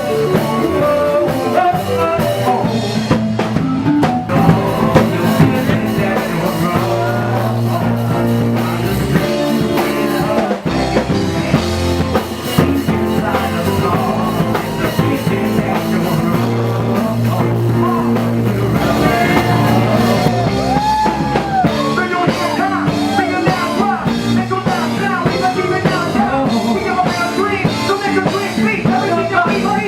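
Rock music with electric guitar and drum kit: an instrumental section with no lyrics, a bending lead guitar line in the second half.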